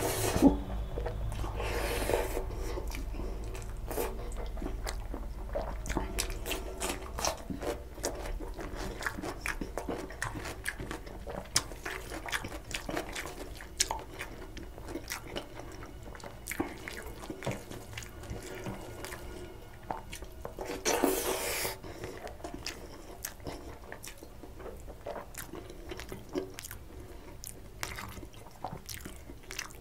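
Close-miked chewing of rice and mutton curry, with many small wet mouth clicks and the squish of fingers mixing rice and gravy on a steel plate. A brief louder rustling burst comes about two-thirds of the way through.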